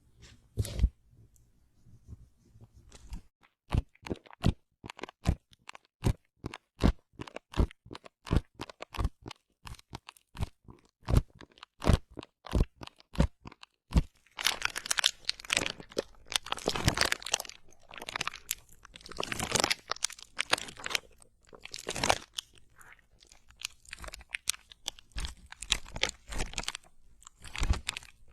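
Close-miked crisp crunching: first a steady run of sharp single crunches, about three a second, then, about halfway through, denser and longer crackly crunches.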